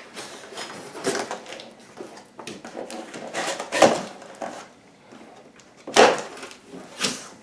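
Cardboard box and packing being handled and pulled apart: irregular scrapes and rustles, with sharper knocks about four and six seconds in.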